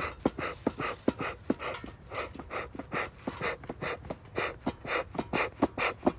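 Rapid, rhythmic panting breaths, about three to four a second, with a few sharp clicks among them.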